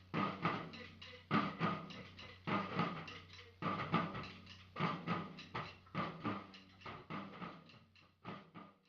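Drums playing a repeating rhythm: a heavy hit about every second with lighter strokes between. The rhythm fades out near the end.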